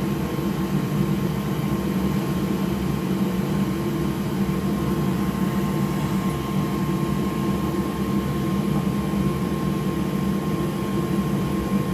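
Electric blower fan running steadily with an even whir, and a faint constant high tone above it.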